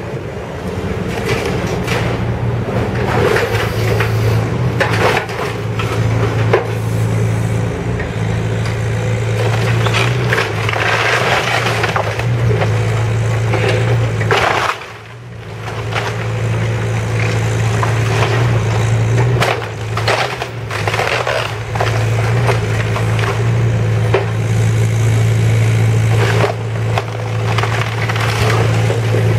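A heavy demolition machine's diesel engine runs steadily while it tears down a house, with repeated crunching, cracking and scraping of breaking wood and debris. Briefly quieter about halfway through.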